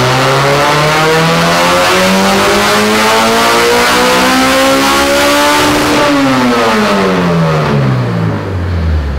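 Honda K24 four-cylinder in a BMW E30 M3, naturally aspirated with 12.5:1 compression, doing a full-throttle pull on a chassis dyno. The revs climb steadily for about six seconds, then the throttle closes and the revs fall away for about three seconds toward idle.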